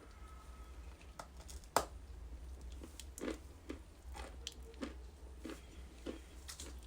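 Ice being bitten and chewed close to the mic. One sharp, loud crack comes near two seconds in, then a run of crunches about every half second as it is chewed.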